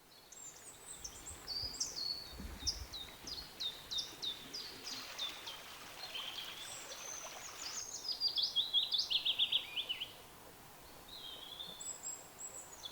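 Songbirds singing: a series of short chirps and whistles, with a fast, dense run of notes about eight seconds in, over faint outdoor background noise.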